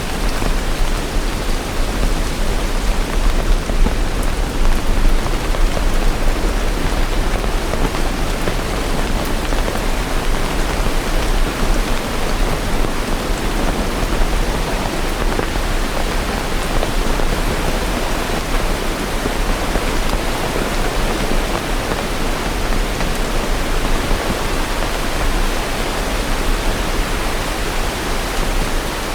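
Steady heavy rain, an even hiss of water with no distinct drops or thunder.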